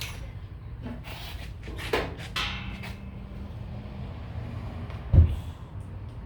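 Metal pieces being handled and knocked together: a few scattered clanks and a dull thump about five seconds in, the loudest, over a steady low hum.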